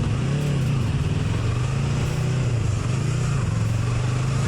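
Motorcycle engine running at a steady road speed, its pitch dipping and rising a little, with a steady hiss over it.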